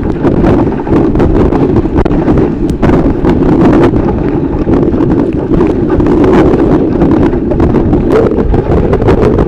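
Strong wind buffeting the microphone aboard a sailboat in heavy sea: a loud, steady rumbling roar, dotted with short sharp clicks.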